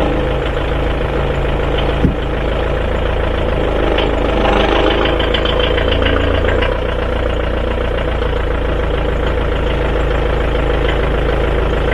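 A vehicle's engine running steadily while it drives forward slowly, with a single knock about two seconds in.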